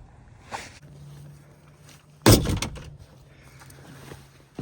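A single loud bang about halfway through, over a faint steady low hum.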